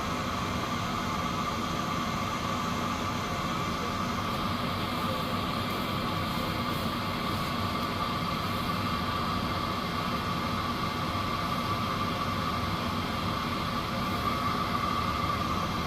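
Cessna 208 Caravan's single PT6A turboprop engine running steadily, heard from inside the cabin as an even rush with a constant high whine.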